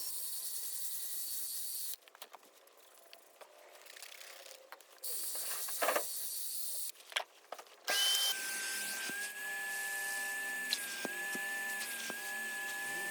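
Carpet-cleaning power tools working a car's carpet floor mat. A drill brush gives two short, hissy bursts of scrubbing, then about eight seconds in a wet-vac motor starts and runs with a steady whine.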